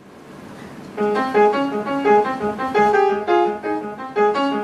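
Piano playing an instrumental introduction in steady repeated chords, coming in about a second in after a quiet, rising hiss.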